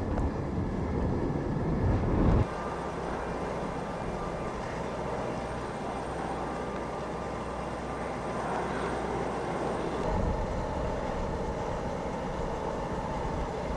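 Jet aircraft engine noise, a steady rush with faint high whining tones, mixed with strong wind buffeting the microphone. The heavy low buffeting cuts off abruptly about two and a half seconds in and returns near the ten-second mark.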